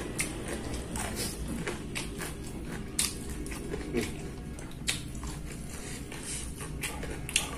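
A person chewing food close to the microphone, with scattered wet mouth clicks and smacks over a steady low hum.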